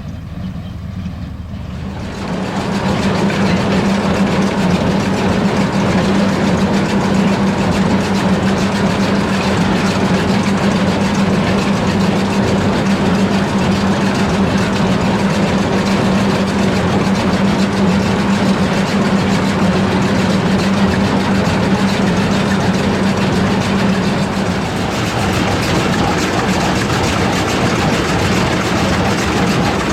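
A heavy engine running steadily close by, with a strong constant hum. It comes in about two seconds in and eases off slightly near the end.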